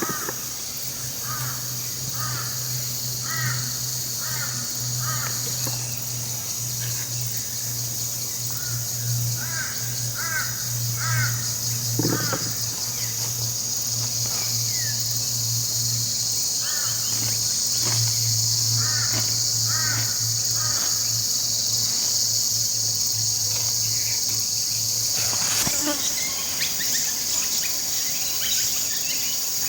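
Steady high-pitched insect buzz with a bird calling in short repeated phrases over it, and a low steady hum that cuts off with a click near the end.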